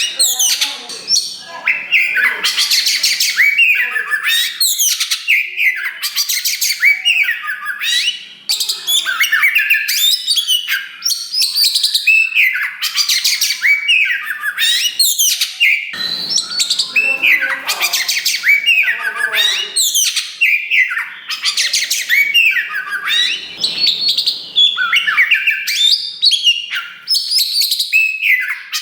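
Black oriental magpie-robin (kacer wulung) singing loudly and without pause: a dense, varied run of rapid whistles, rising and falling glides, fast trills and harsher notes.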